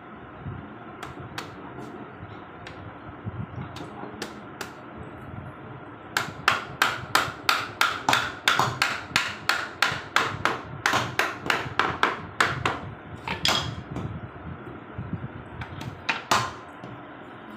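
Hammer blows on a rohida wood frame: a few scattered knocks, then a fast, even run of strikes at about three a second for several seconds, and a last few blows near the end.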